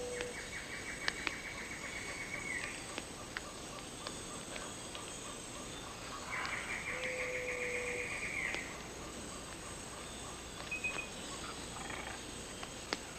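Rainforest animal calls: a rapid rattling trill that sounds twice for about two seconds each, a short low whistled note, and a faint fast steady pulsing underneath, with scattered clicks.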